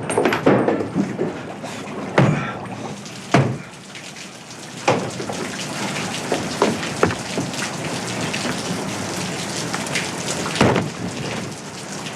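Rain pouring steadily, with a few loud thumps.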